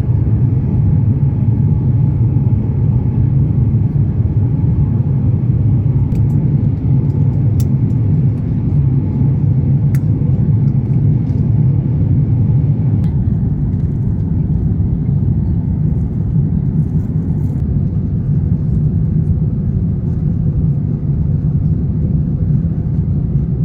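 Steady low rumble of engine and airflow noise inside the cabin of an Airbus A350-900 airliner, holding an even level throughout.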